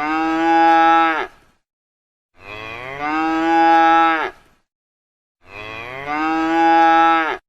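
A cow mooing three times, each moo a long pitched call of about two seconds separated by short silences. The three calls are nearly identical, like one recording repeated.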